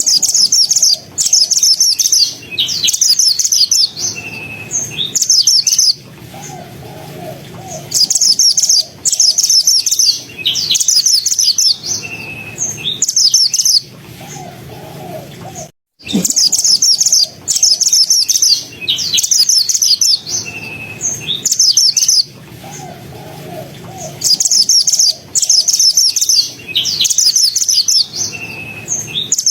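Pied bushchat (mantenan) singing rapid, densely packed high-pitched song phrases, one burst every one to two seconds, with short pauses between them. There is a brief break about halfway through, and then the same song pattern starts again.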